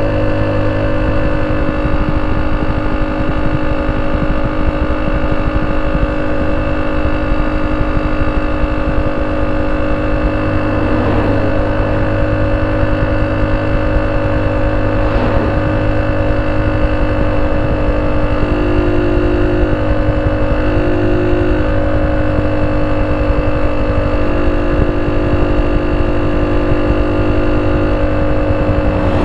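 Honda C70's 70cc single-cylinder four-stroke engine running at a steady idle through a banana-style ('pisang') exhaust, with an even, unchanging note.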